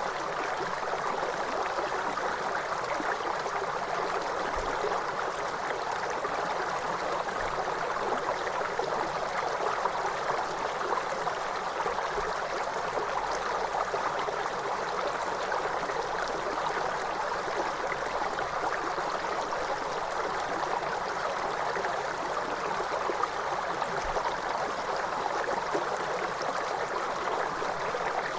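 Waterfall: falling water rushing steadily and without a break, more hiss and splash than deep rumble.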